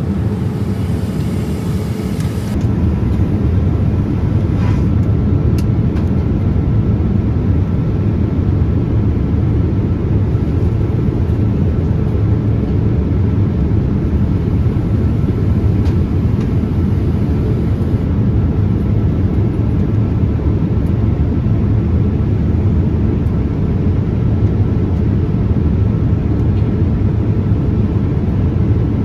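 Steady low rush of a Boeing 787-8 airliner heard from inside the cabin: engine and airflow noise, slightly louder from about three seconds in.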